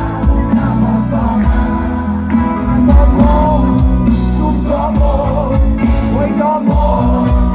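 Loud band music with a singing voice carrying the melody over heavy bass.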